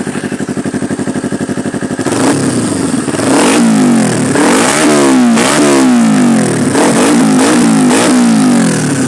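Kawasaki Ninja 250R parallel-twin with a cheap aftermarket slip-on end can, idling for about two seconds and then revved repeatedly, the pitch rising and falling with each quick blip of the throttle. The exhaust note is being shown off as a sound check of the new can.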